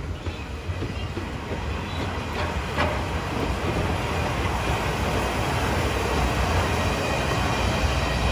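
SL Hitoyoshi train hauled by a DE10 diesel locomotive pulling out past, a steady low rumble that grows louder after about three seconds, with a single knock about three seconds in.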